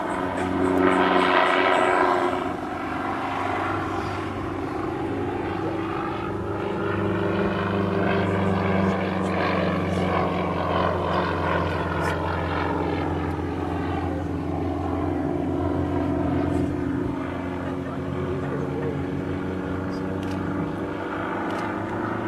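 Sukhoi Su-31 aerobatic plane's nine-cylinder radial engine and propeller droning in flight. The pitch slowly rises and falls as it manoeuvres, loudest about a second in.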